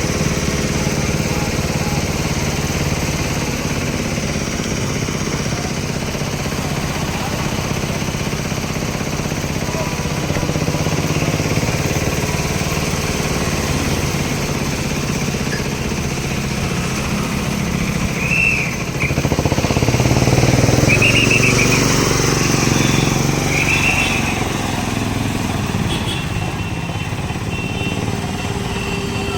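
Road traffic, with motorcycle engines running and passing. It gets louder about twenty seconds in, and three short high-pitched toots come around the same time.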